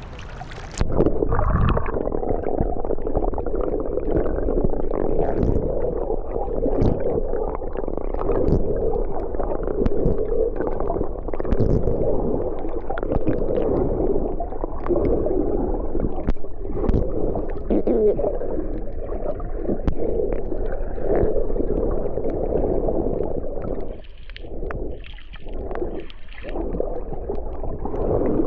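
Muffled underwater sound from a camera held in the sea while snorkelling: a steady churning of water and bubbles against the housing. The sound drops out briefly a few times near the end.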